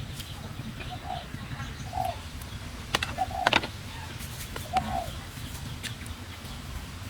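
A bird calling in short low notes, four of them spread over several seconds, with two sharp knocks close together about three seconds in, over a steady low rumble.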